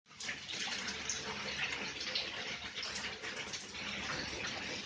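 Steady rushing noise like running water, starting abruptly right at the start.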